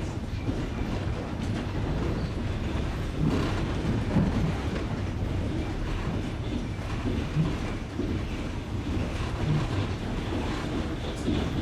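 Passenger train wheels running over jointed rail: a steady rumble with clacks every second or few seconds as the wheelsets cross the rail joints, heard from aboard the train.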